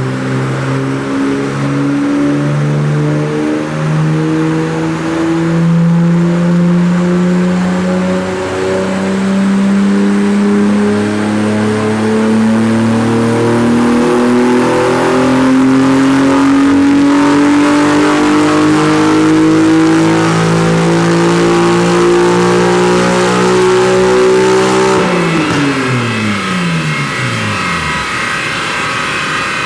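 Nissan Skyline R32 GT-R's RB26DETT twin-turbo straight-six in a long dyno pull, its pitch climbing steadily for about 25 seconds. It then backs off, the revs falling quickly.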